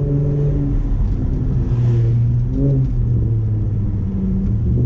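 Infiniti G35's VQ35DE 3.5-litre V6 running at low revs while creeping along, heard through an open window. Its pitch shifts up and down a few times with the throttle.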